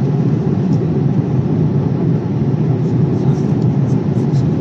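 Steady low rumble of cabin noise inside a Boeing 787-8 airliner, the airflow and engine noise of the aircraft in flight.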